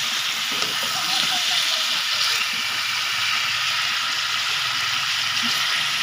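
Fish and shrimp sizzling steadily in a metal wok as a metal spatula stirs them.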